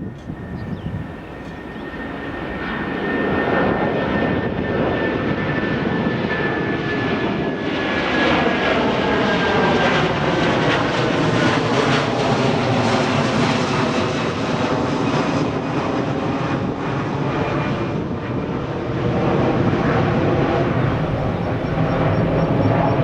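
Jet airliner passing close by: its engine noise builds over the first few seconds and stays loud, with a high engine whine sliding slowly down in pitch as the aircraft goes past.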